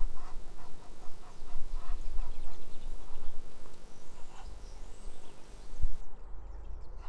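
Birds calling: a quick run of short, repeated calls through the first couple of seconds, then scattered higher chirps and a sweeping whistle. A low rumble on the microphone runs underneath.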